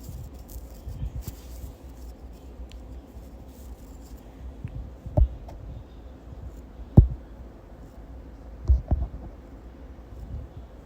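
A few short knocks over a low steady rumble: one about five seconds in, a louder one at seven seconds, and a quick pair near nine seconds.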